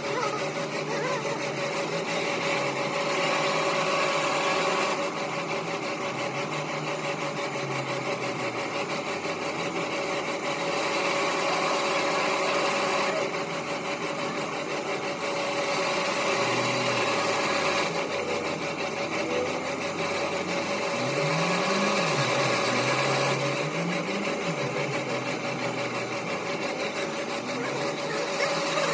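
A motor-driven machine running steadily with a constant whine. The noise grows louder and softer every few seconds, and a few low rising-and-falling sweeps come near the end.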